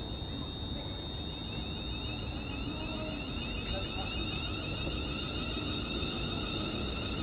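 Electric train pulling away, its traction equipment whining as a steady high whistle with many rising pitch glides over a low rumble, growing gradually louder.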